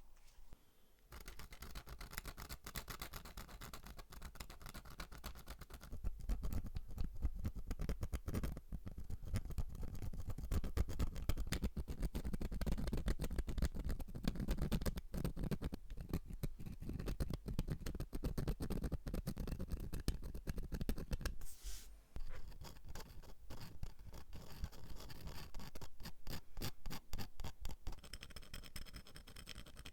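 Rapid back-and-forth scrubbing strokes on a small metal lighter part, beginning about a second in, with a brief pause about two-thirds of the way through.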